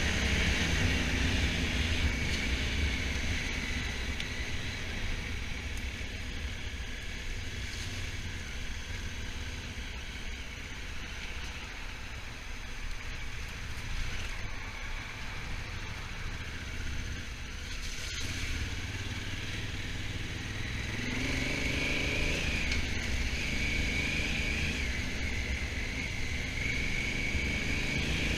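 Honda Africa Twin motorcycle engine running under way, with steady wind and road rush; about three-quarters of the way through the revs rise as the bike accelerates.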